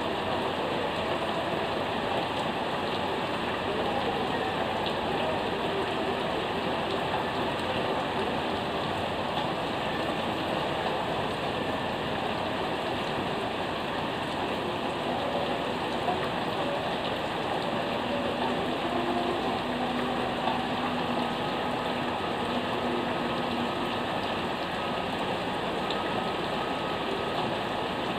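Fairly heavy rain falling steadily and evenly, hissing on surfaces.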